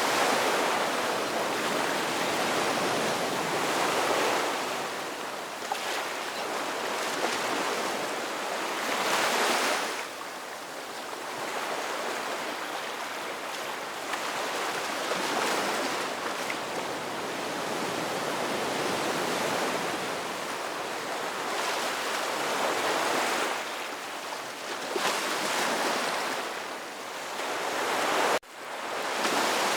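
Ocean surf breaking and washing onto a beach, a steady rush of water that swells with each wave every few seconds. The sound cuts out for an instant near the end.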